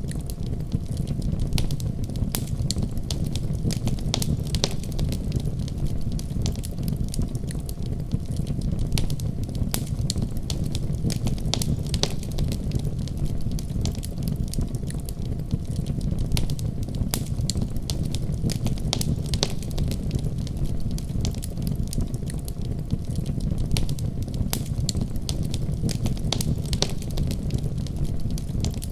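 Fire crackling: frequent irregular sharp pops and snaps over a steady low rumble of burning.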